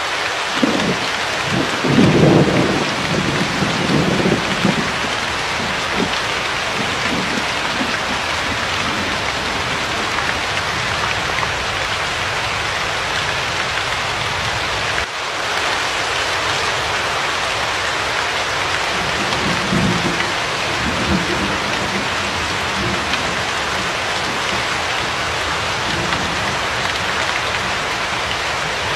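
Steady rain, with low thunder rumbling in the first few seconds, loudest about two seconds in, and again more faintly about twenty seconds in.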